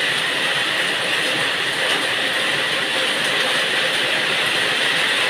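Heavy rain pouring down, a steady dense hiss that does not let up.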